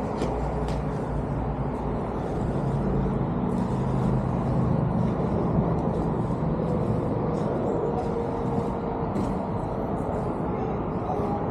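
Steady vehicle noise with a faint engine hum that swells a little in the middle, then eases.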